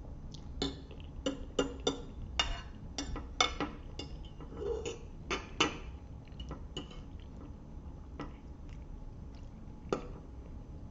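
Close-up eating sounds of a spaghetti meal: wet mouth smacks and chewing mixed with fork clicks against the plate. They come in a quick run of sharp clicks over the first six seconds, then sparser, with one sharp click about ten seconds in.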